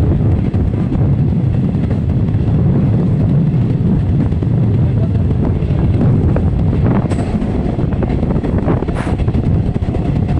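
Passenger train running at speed: a steady, loud rumble with wind on the microphone. A couple of brief sharp clicks come about 7 and 9 seconds in.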